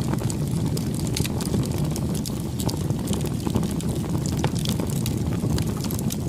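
Bonfire burning: a steady low rush of flames with frequent irregular crackles and pops from the burning wood.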